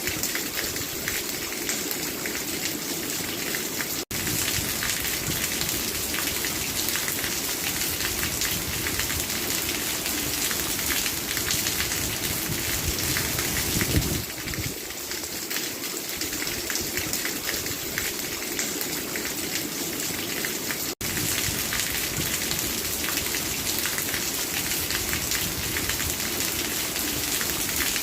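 Steady, heavy rain falling, a dense even hiss of many drops striking a surface. It cuts out for an instant twice, about four seconds in and again past the twenty-second mark.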